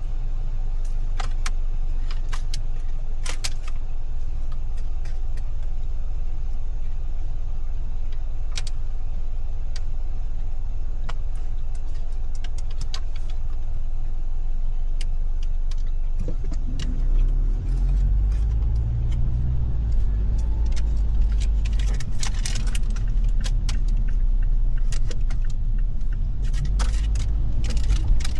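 Car cabin noise on a rainy drive: a steady low rumble of engine and tyres, with scattered raindrop ticks on the car. About 17 seconds in the rumble grows heavier, and the taps come thicker near the end.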